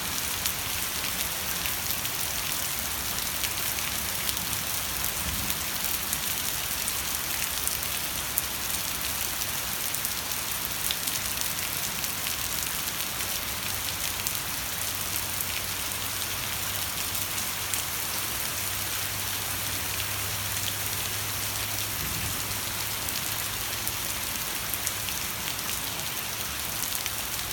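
Steady rain falling: an even hiss of drops with many small, sharp drop hits. A faint low hum runs through the middle.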